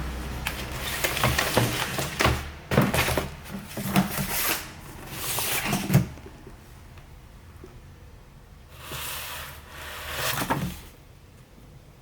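A run of knocks, thuds and rustling, like wooden drawers, doors or debris being moved, the sharpest knock about six seconds in, then two softer rustles near the end.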